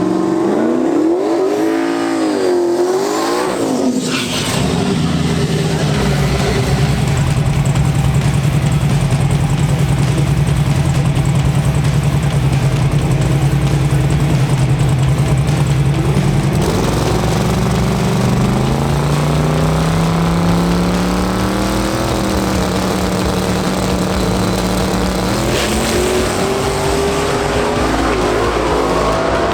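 Drag-racing car engine revving. Its pitch swings up and down over the first few seconds, then holds steady for about twelve seconds, then climbs in several steps as the car pulls through the gears.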